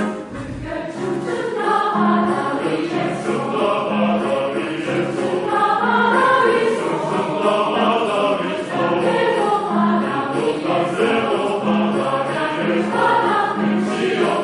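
Choir singing a song in parts, with a low accompaniment note returning at a steady beat beneath the voices.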